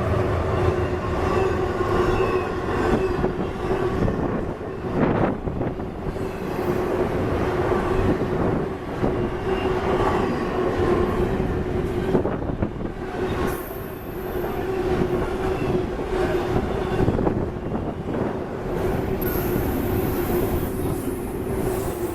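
A freight train's cars rolling past on the rails: a steady rumble and clatter of wheels, with a continuous whining tone held over it.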